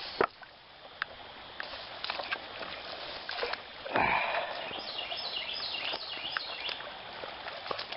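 A person wading into shallow creek water: sloshing and splashing with scattered knocks, and one louder splash about four seconds in.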